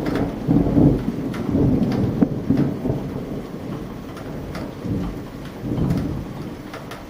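Thunder rumbling in long rolls over steady rain, with single drops ticking close by. The rumble swells twice and dies away near the end.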